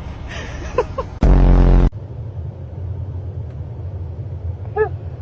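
A dog coming out of anesthesia vocalising: a loud, low, steady-pitched groan lasting under a second about a second in, then a short high whimper near the end, over a steady low rumble.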